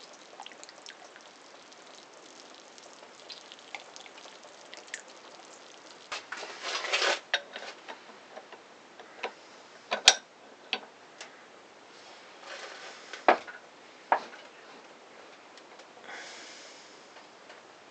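Hand tools working on a stuck outboard-motor flywheel and its puller: scattered small metallic clicks and taps, a brief hiss about six seconds in, and a sharp metal clank about ten seconds in, followed by a few more knocks.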